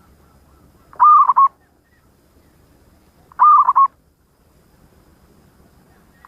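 Zebra dove (perkutut) cooing: two short phrases of several quick notes, about two and a half seconds apart, with a third starting right at the end.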